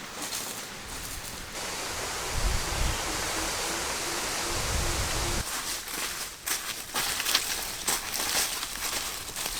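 A steady rushing hiss that starts suddenly and cuts off after about four seconds, followed by scattered light knocks and clicks.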